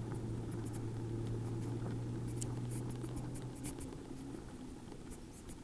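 Zero SR electric motorcycle rolling along almost silently: a low steady hum that fades away a little past halfway, with scattered light ticks.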